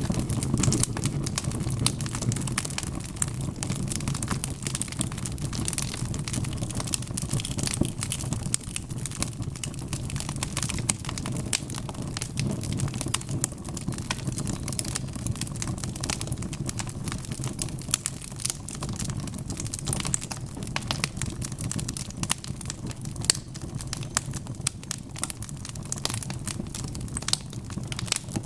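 Log fire crackling in a fireplace: many small sharp pops and snaps in quick succession over a low steady rumble of the flames.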